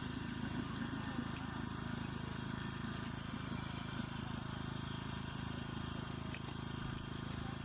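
An engine running steadily at an even idle-like speed, with a few faint clicks over it.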